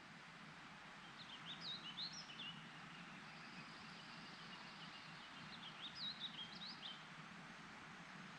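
A songbird singing two short phrases of quick chirping notes, about a second in and again near six seconds in, over a steady faint background hiss.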